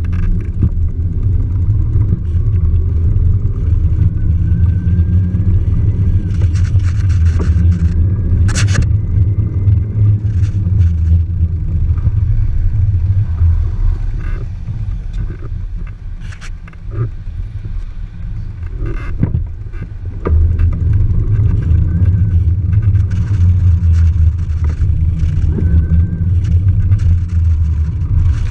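Loud, steady low rumble from riding a mountain bike, with scattered clicks and rattles. It eases off briefly a little past halfway, then returns.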